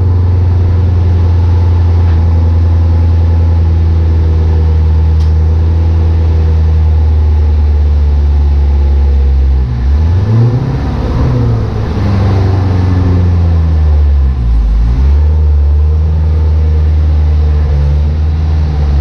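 2017 Chevrolet Corvette Stingray's 6.2-litre V8 idling steadily. From about ten seconds in its pitch swings up and down a few times as the car moves off slowly.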